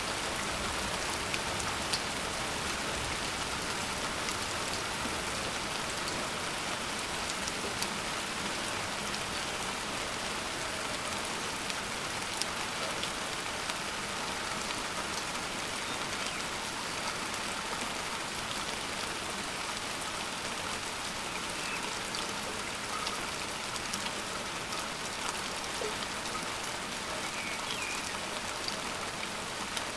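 Steady downpour of rain, with many individual drops ticking sharply close by.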